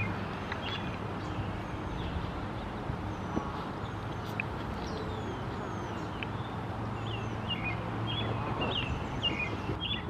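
Small songbirds chirping in short scattered calls, with a quicker run of chirps in the last few seconds and a few faint high thin whistles, over a steady low hum.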